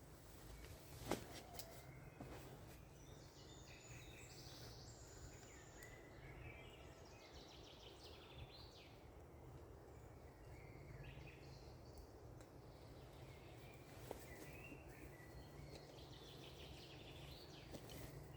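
Faint birdsong in a forest over a low, steady background hum, with a single sharp click about a second in and another about two-thirds of the way through.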